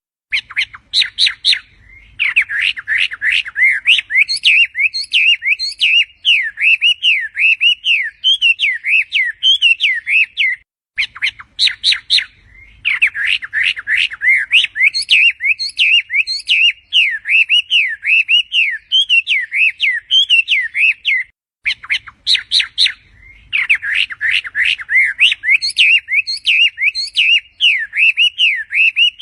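A songbird singing a long, fast warbling song of rapid up-and-down whistled notes, each phrase opening with a quick run of short chips. The same roughly ten-second phrase comes three times, with a short break before each repeat.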